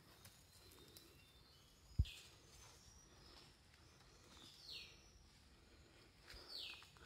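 A bird calling three times in the forest, each call a short note sliding down in pitch, spaced a couple of seconds apart. A single low thump comes about two seconds in.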